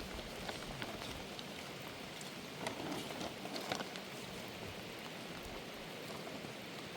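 Steady rain falling, with scattered sharper clicks of individual drops striking.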